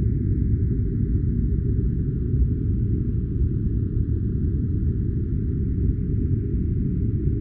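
Steady, deep rumbling noise with no events or changes: a low white-noise sleep-sound track.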